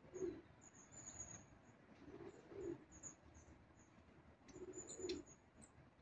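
Faint, thin, very high calls of long-tailed tits and other small tits, short notes repeated several times a second. Behind them a pigeon coos low, a two-note coo about every two seconds, three times.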